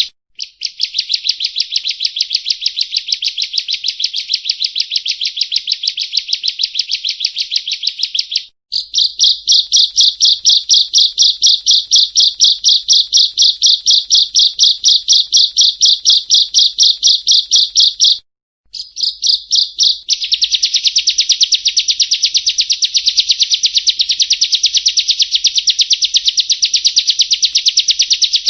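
Prinia (perenjak) calling: long runs of rapid, high, buzzy notes repeated evenly at about six a second, stopping briefly a few times and starting again.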